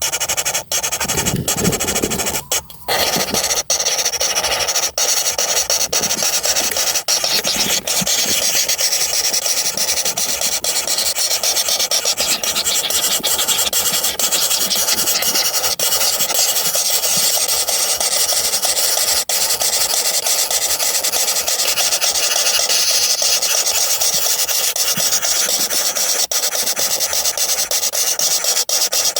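Woodpecker nestlings begging in the nest hole: a continuous raspy, buzzing chorus at a steady level.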